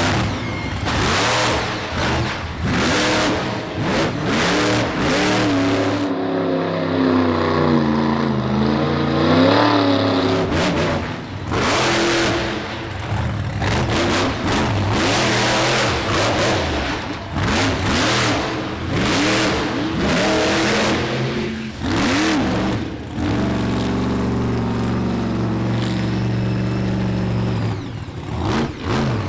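Monster truck engine revved hard in repeated full-throttle bursts, dropping to a lower, wavering run between about six and ten seconds in and again for a few seconds near the end.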